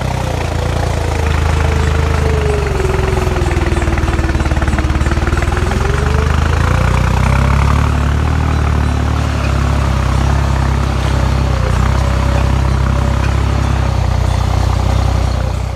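Deutz-Fahr 4055 tractor engine running hard as the tractor drives up a slope, with a tone in it that sags in pitch about two seconds in and climbs back a few seconds later.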